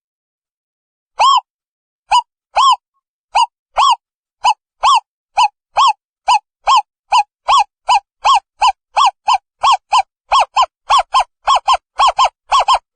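Owl calling: a series of short hoots, each rising and falling slightly in pitch, spaced widely at first and then speeding up to about three a second.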